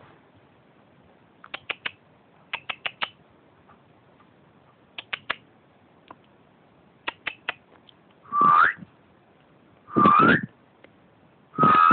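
A whistle sounded in quick groups of three or four short chirps. Then, from about eight seconds in, it gives three longer, louder toots about a second and a half apart.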